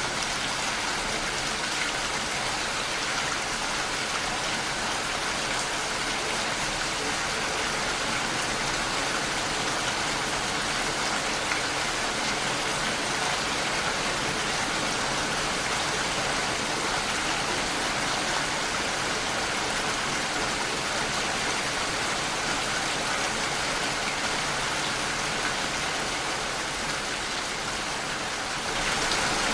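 Steady rain falling against a window pane, an even hiss of drops with no distinct single hits; it gets a little louder near the end.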